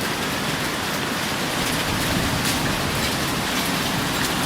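Heavy rain falling steadily, a dense hiss of rain on hard surfaces with occasional sharper drop hits close by.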